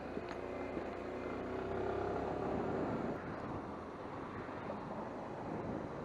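Suzuki Skywave 250 scooter's single-cylinder engine and road noise while riding, with a pitched hum that rises over about three seconds and then falls away.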